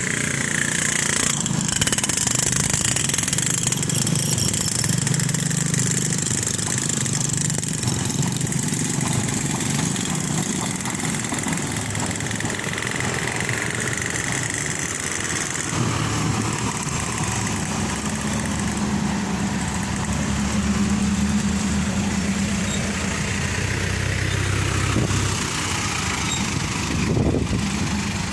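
Motor vehicle engines running steadily in road traffic, with the engine note changing about halfway through.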